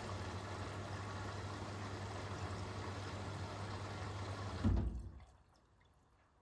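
Hoover H-WASH 500 washing machine taking in water: a steady rush of inflowing water with the low hum of the inlet valve. It runs for about five seconds, then shuts off abruptly, a sign of the machine filling in short pulses.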